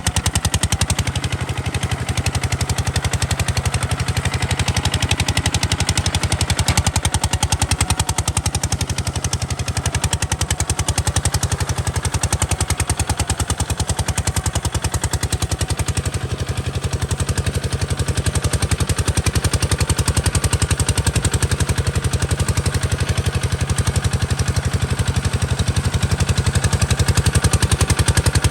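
Kubota RT140 DI single-cylinder diesel engine running steadily, with a fast, even exhaust beat.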